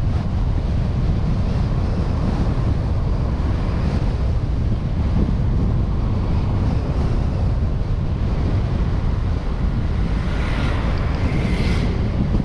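Wind buffeting a suction-cup-mounted action camera on a moving vehicle, over a steady low rumble from the road and engine. Near the end a brief higher hiss with a faint whine rises above it.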